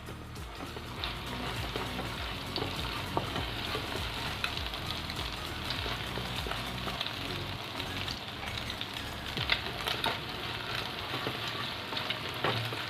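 Egg frying in hot oil in a pan, sizzling steadily as it is stirred and scrambled, with occasional sharp taps of the stirring utensil against the pan.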